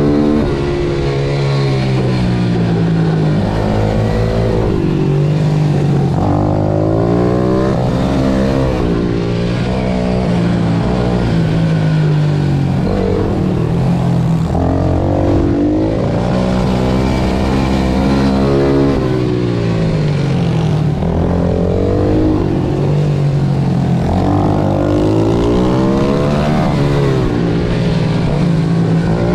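Pit bike engine lapping a track, revving up and dropping back over and over as the rider runs through the gears and brakes for corners.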